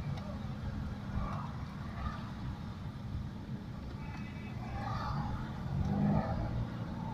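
Road traffic: the low, steady rumble of car engines on a street, with faint voices in the background.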